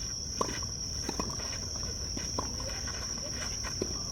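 Tennis ball struck back and forth in a rally: short sharp pops of racket hits and bounces about every second, over a steady high-pitched drone of insects.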